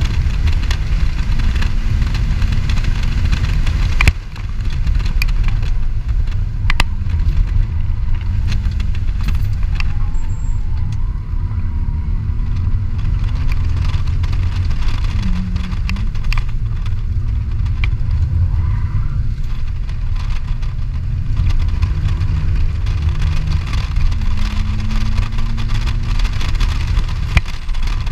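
2003 BMW 325i's straight-six engine heard from inside the cabin while lapping a track, with a loud low rumble of engine, road and wind noise and engine pitch rising and falling. A sharp knock about four seconds in.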